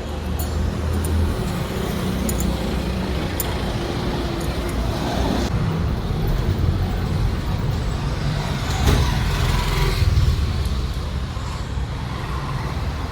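Motor vehicle engine rumble, steady and low, swelling louder about nine to ten seconds in, with a few light clicks.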